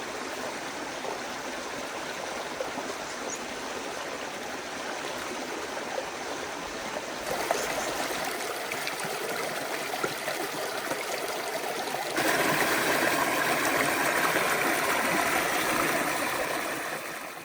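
Creek water running over rocks, a steady rushing and trickling. It gets louder in two steps, about seven and about twelve seconds in.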